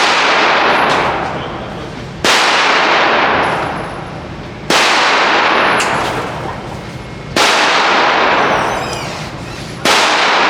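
Five gunshots fired one at a time, about every two and a half seconds. Each is a sharp crack followed by a long, fading hiss of reverberation.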